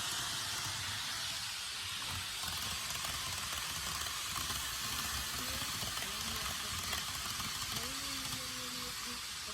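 KATO N-gauge model of the Taiwan 700T Shinkansen running on track: a steady low rumble from the wheels and motor under a constant hiss.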